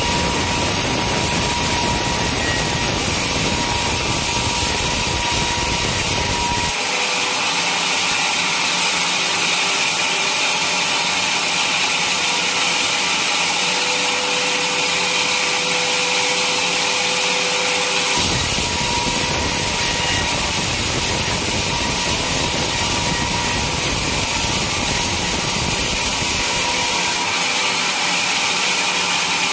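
Sawmill saw running and cutting through a teak log, a steady loud rasping whine. The deep rumble underneath drops away abruptly about seven seconds in, comes back some eleven seconds later, and drops away again near the end.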